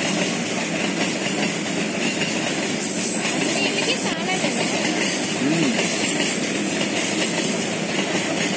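Freight train of covered goods wagons running past on the rails: a steady, even noise of wagon wheels on track.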